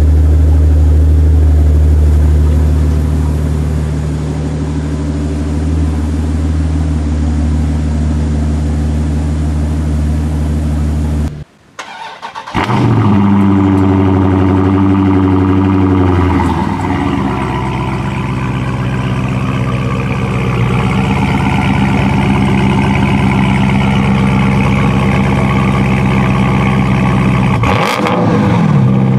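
A black sports car's engine idling steadily, cut off after about eleven seconds. A Dodge Charger SRT's V8 then starts cold, running a fast high idle that drops to a lower idle a few seconds later, and is briefly revved near the end.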